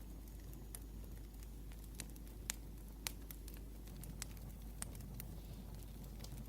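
Wood fire crackling: irregular sharp pops and snaps from burning logs over a low steady background, with two louder pops about two and a half and three seconds in.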